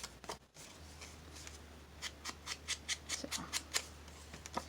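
Quick rubbing or scraping strokes of paper being worked by hand, about four a second from about two seconds in, over a steady low hum.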